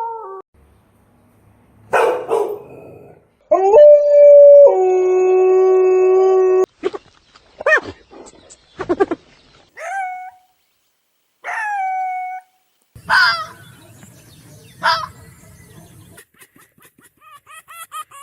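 A run of separate animal calls, one after another with gaps: a short call, then a long held call that steps down in pitch partway through, then several short calls that fall in pitch.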